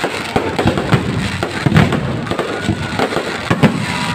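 Fireworks going off: a dense, irregular run of sharp bangs and crackles, several a second.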